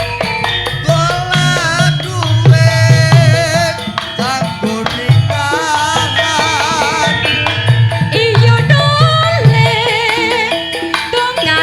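Javanese gamelan-style ensemble music with kendang hand drums keeping a steady beat under a high melody sung or played with wide vibrato.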